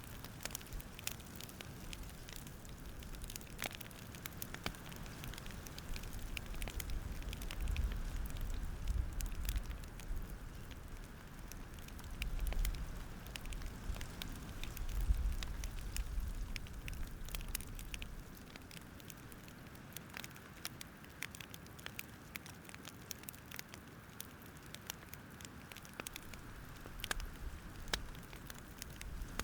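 Campfire crackling, with irregular sharp pops and snaps. A low rumble swells through the middle and then fades.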